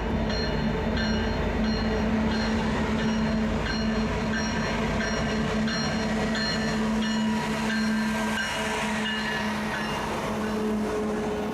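Freight train cars rolling past steadily, with a low hum under the rumble and short high-pitched squeals from the wheels scattered throughout.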